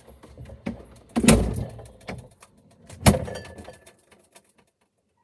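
Knocks from handling, with two solid thumps about one and three seconds in, the second likely the fridge door shutting; after it the sound goes almost dead, as heard from inside the closed fridge.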